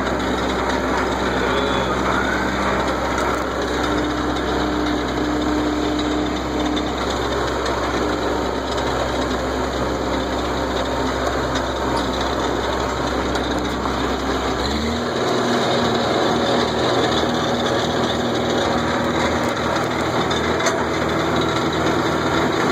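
Tractor engine running steadily under way, over a constant rattling, noisy haze. About fifteen seconds in, the engine note changes and rises slightly.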